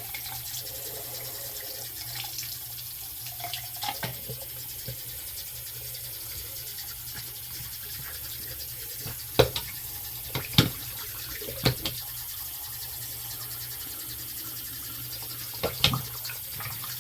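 Faucet running steadily into a sink, with a few sharp knocks and clicks, loudest around the middle and again near the end.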